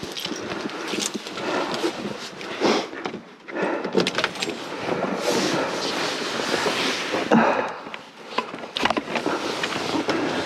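Storm wind gusting over a helmet-mounted microphone, rising and falling in loudness, with a few knocks.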